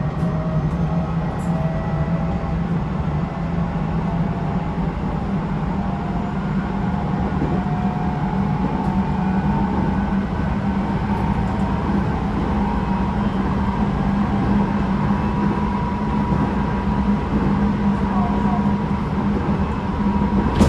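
Tobu 9050 series electric train running, heard inside motor car MoHa 9952: a steady rumble of wheels on track with a constant low hum and faint motor tones that drift in pitch. The car's air conditioning runs throughout.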